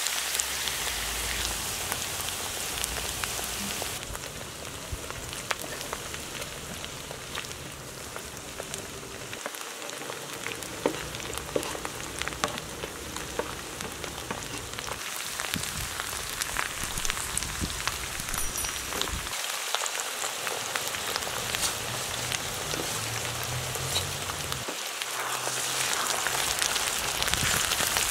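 Oil sizzling and crackling as finely chopped onion and sliced mushrooms fry on a sadj griddle. Near the end a wooden spatula stirs the mix and the sizzle grows a little louder.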